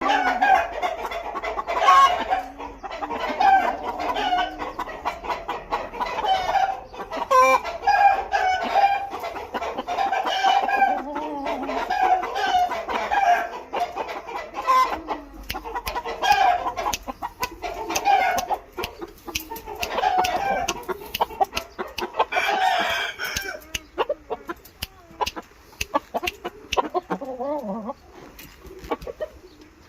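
Birds calling over and over, about one call every one to two seconds, mixed with sharp clicks. The calls thin out and get quieter after about 24 seconds.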